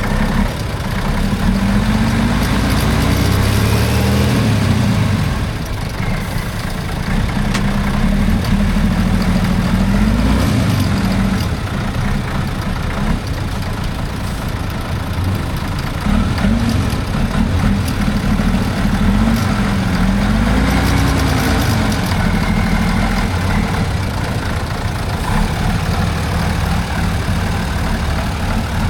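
A heavy off-road trial truck's engine revving up and down in repeated swells, holding steadier between them.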